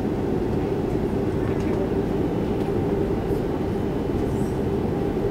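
Steady cabin noise inside an Airbus A330-300: an even engine drone with a low rumble underneath, holding level throughout.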